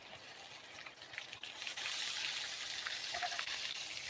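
Coated chicken intestines (isaw) frying in hot oil in a pan: a steady hissing sizzle with small crackles, growing louder about a second and a half in as the pieces are lifted and turned with tongs.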